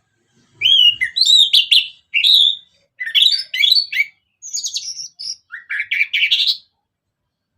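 Orange-headed thrush in full song: a quick run of varied whistled and warbled phrases lasting about six seconds.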